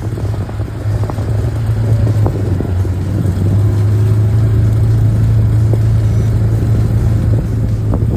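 Small off-road vehicle engine running at a steady speed, a low steady drone that builds over the first couple of seconds and eases slightly near the end, with scattered light knocks over it.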